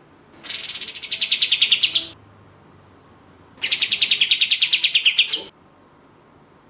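Kapas tembak (katem) singing two rapid trilled bursts of high notes, about ten notes a second, each burst about a second and a half long with a pause between; the pitch falls slightly through each burst.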